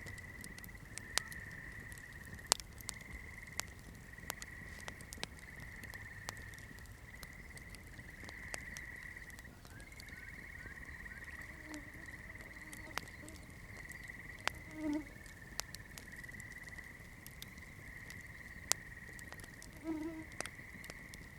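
Wood campfire crackling with scattered sharp pops, over a steady high-pitched insect trill. Two short, low croaking calls stand out, about two-thirds in and near the end.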